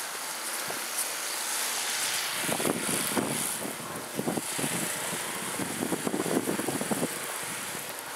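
An engine running nearby, rising into a louder, rough, uneven stretch for about five seconds in the middle, over a steady hiss.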